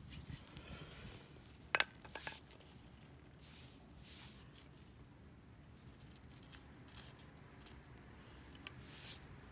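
Wood campfire crackling: scattered sharp pops and snaps, the loudest about two seconds in, over a faint low background.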